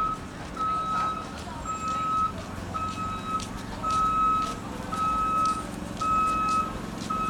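Vehicle reversing alarm beeping steadily, about once a second, each beep a single held tone about half a second long, over a low steady rumble.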